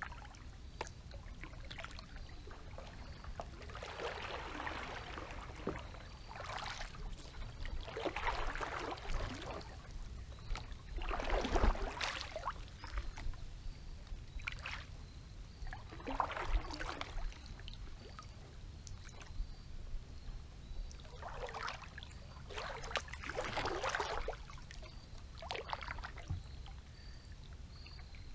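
Kayak paddle strokes dipping and swishing through creek water, a swish every couple of seconds, over a faint steady low rumble.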